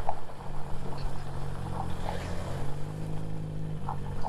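KTM 250 Adventure motorcycle engine running under way on a rough off-road track, steady at first, then climbing in pitch about three seconds in as it revs up, over a low rumble of wind and road noise.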